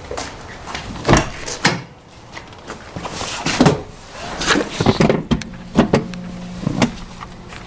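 A series of knocks, thumps and rustling handling noises, such as a door and someone moving about in a car, with a low steady hum joining about five seconds in.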